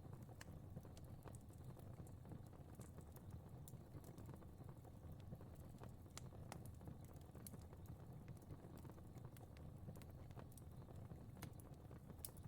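Faint crackling fire: a low steady rumble of flames with scattered small, irregular pops and crackles.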